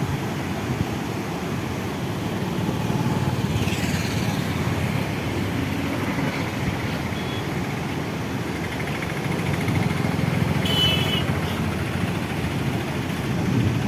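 Steady low rumble, like a motor running or wind on the microphone. Two short high calls cut through it: a falling one about four seconds in and a brief chirp near eleven seconds.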